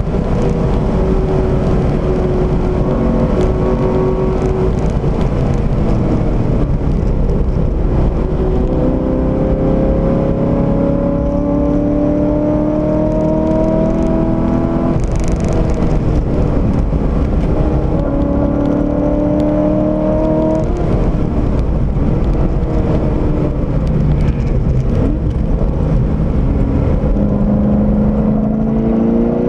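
Corvette C6 Z06's 7.0-litre LS7 V8, heard from inside the cabin, at hard throttle. The engine note rises in pitch under acceleration and drops back at each upshift or lift, several times, over steady road and wind noise.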